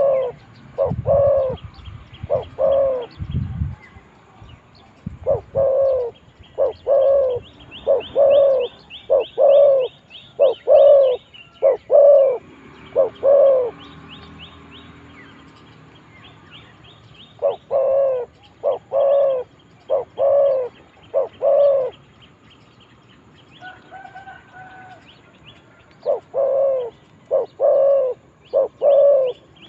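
Spotted doves cooing: a run of repeated coos, then a pause of a few seconds, then another run. Small birds chirp faintly and high behind them, and there are a few low thuds in the first few seconds.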